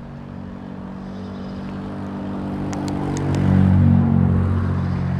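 A passing motor vehicle's engine hum, a steady low drone that grows louder to a peak about four seconds in and then eases off. A few short sharp clicks sound around three seconds in.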